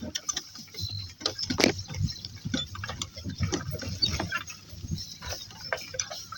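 Donkey-drawn cart on the move: irregular clicking, knocking and rattling of the cart and harness, with low thuds, as the donkeys pull it at a walk.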